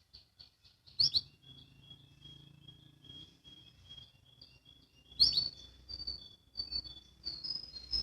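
Canary singing: quick runs of short, high chirped notes, broken by two loud sharp notes, about a second in and about five seconds in.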